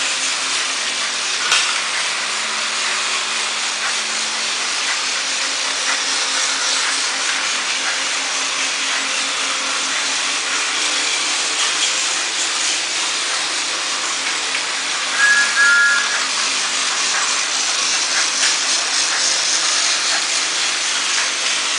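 Battery-powered Thomas toy trains running: a steady whirring hiss from the small motors and wheels. A short two-note tone sounds about fifteen seconds in.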